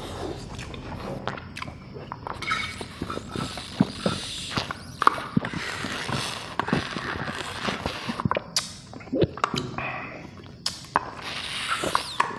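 A person chewing crispy fried food, with irregular crunches and sharp clicks.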